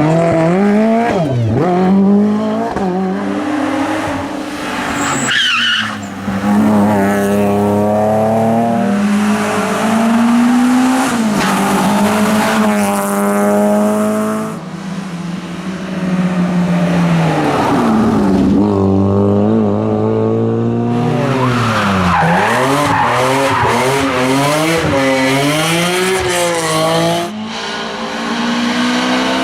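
Rally cars at full throttle on a stage, engines revving up and dropping back again and again through gear changes and braking as they come through. Several passes follow one another, with short breaks between them.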